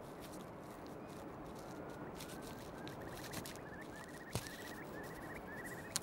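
Faint, quick, repeated twittering of a snow bunting, starting about halfway through, over a steady low outdoor hiss, with a single soft click about four seconds in.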